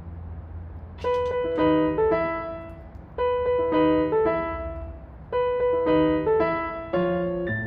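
Background piano music: a short phrase of struck notes repeated about every two seconds over a low steady drone.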